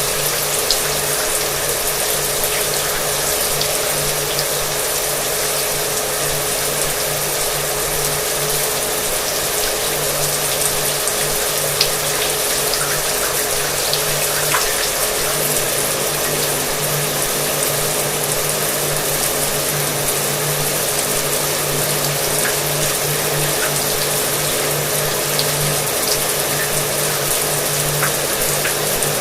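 Shower water running steadily, with a hair dryer running underneath it as a continuous hum. The sound is even throughout, with faint scattered ticks in the spray.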